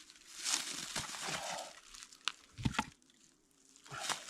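Split firewood being handled and laid into a log-cabin fire stack: rustling of bark and wood, with a few short wooden knocks as pieces are set down about two and a half seconds in.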